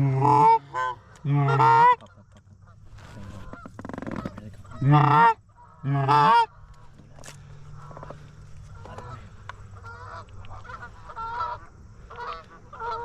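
Goose honking: loud runs of honks and clucks near the start and again about five seconds in, then fainter, quicker honks through the rest.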